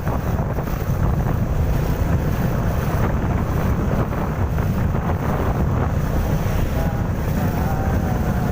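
Wind buffeting the microphone over a steady low rumble of road traffic.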